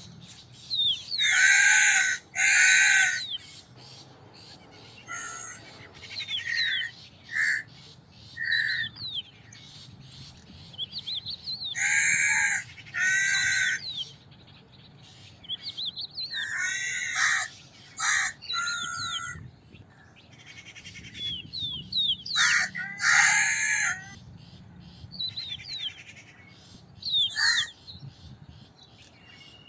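Crows cawing: loud, harsh caws that come mostly in pairs, a few seconds apart, with smaller birds chirping in short high notes between them.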